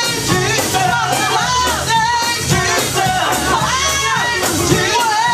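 Live gospel praise music: singing over a band with a steady beat.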